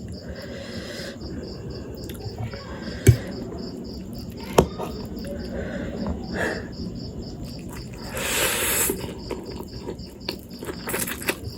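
Eating sounds from a bowl of spicy instant noodles: sharp clicks about three and four and a half seconds in and a brief hissing slurp near eight seconds. Under them a cricket chirps steadily, about four or five chirps a second.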